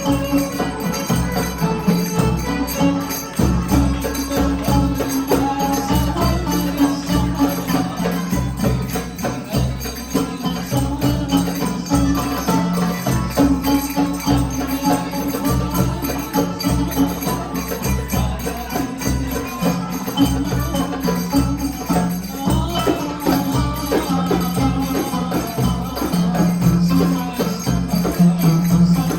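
Live band music with steady jingling hand percussion over a repeating low bass line.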